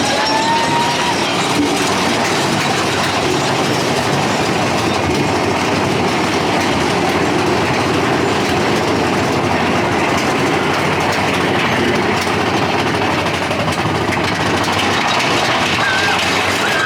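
Big Thunder Mountain Railroad mine-train roller coaster cars running along the track, heard from a seat on board: a steady, loud running noise of the train.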